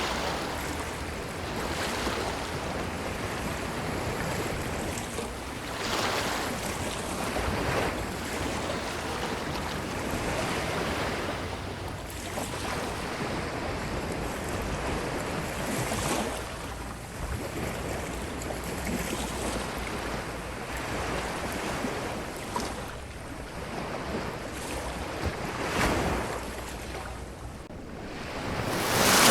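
Ocean surf washing up a beach: a continuous rushing wash of waves that swells every few seconds as each wave breaks and runs up the shore.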